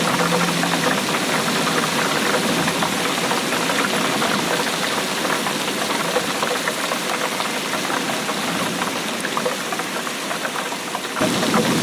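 Steady rain, a dense patter of countless drops. Near the end it shifts abruptly and a deeper rumble comes in.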